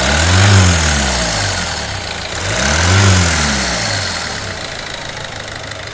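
Peugeot 1.6 HDi 8-valve diesel engine idling and revved up and back down twice. This is to show the knocking noise at idle and under acceleration, which the mechanic traces to a damaged vacuum pump whose rotor has scored its vanes.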